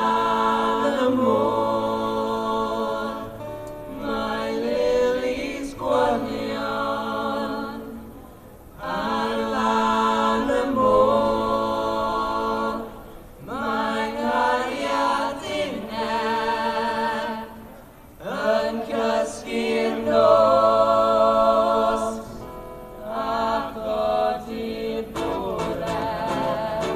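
Unaccompanied voices singing a slow Welsh folk song in harmony, in long held phrases with short breaks between them.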